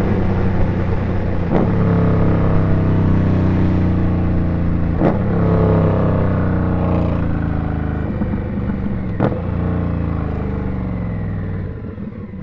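Indian Scout's V-twin engine running under way, its note sliding down in pitch twice as the bike slows, with a few short clicks. It goes quieter near the end.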